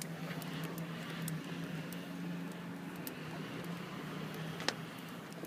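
Outdoor bonfire crackling, with scattered faint ticks and one sharp pop near the end, over a steady low hum and background noise.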